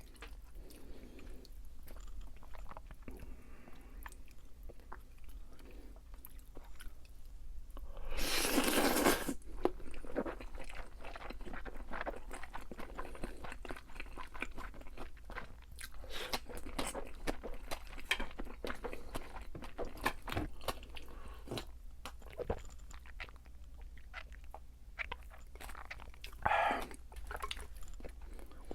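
A person biting and chewing crispy deep-fried food, with dense crunching throughout and louder bursts about eight seconds in and near the end.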